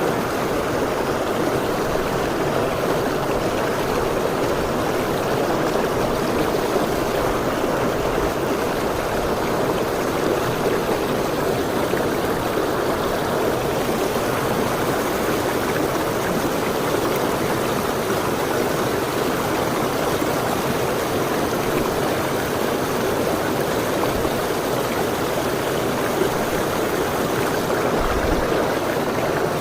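Mountain stream rushing over rocks: a steady, even flow of water.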